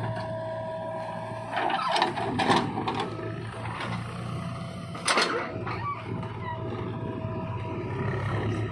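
JCB 3DX backhoe loader's diesel engine running steadily at working speed, with two louder spells of rough working noise about one and a half seconds in and again about five seconds in as the machine works.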